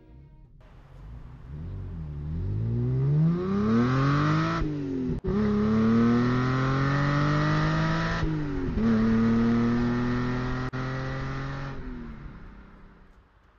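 Car engine accelerating hard through the gears. The pitch climbs, falls back at two gear changes about four seconds apart, climbs again, then fades away as the car draws off.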